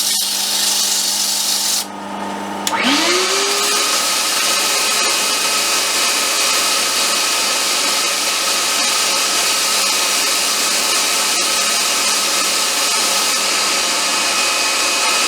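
Wood lathe turning a wooden popper lure body. A motor hum at first; about three seconds in, a motor winds up in pitch and a loud, steady rasp of the spinning wood being worked carries on.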